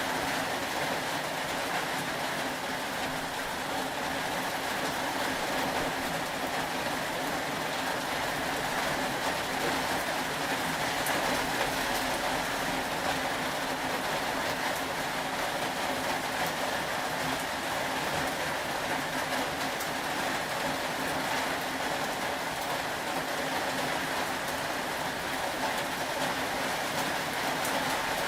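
Steady, even rain with no breaks or changes.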